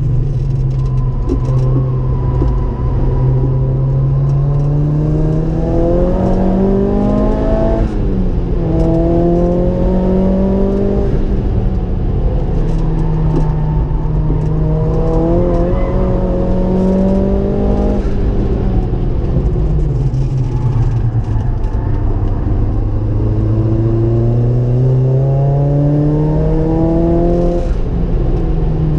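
Ford Focus RS engine heard from inside the cabin, pulling hard and rising in pitch, with a sharp drop at a gear change about eight seconds in. It climbs again, holds, falls away around twenty seconds in, then climbs steadily again near the end.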